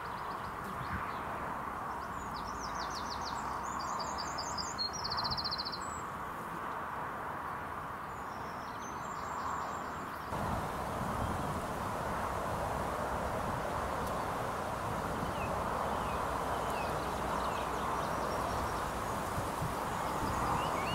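Outdoor ambience: a steady background hiss with a small songbird singing short trilled phrases, twice in the first half. About ten seconds in the background changes abruptly to a slightly louder, fuller hiss with only faint chirps.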